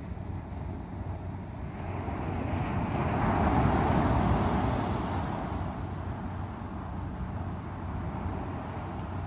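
Sea waves breaking on the shore: a wave builds, breaks about three to four seconds in, then washes back down into a steady rush of surf.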